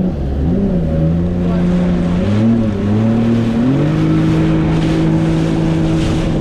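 Jet ski engine running under way, its pitch dipping and wavering with the throttle, then rising just before the four-second mark and holding steady, over a rushing noise.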